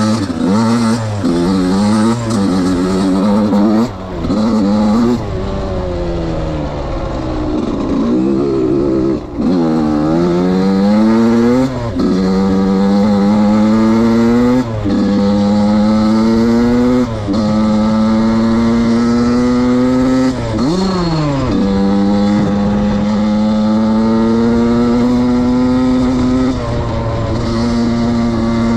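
Suzuki RM85's 85 cc single-cylinder two-stroke engine being ridden hard: quick revs rising and falling for the first several seconds, then longer pulls in which the pitch climbs steadily and drops sharply at each gear change.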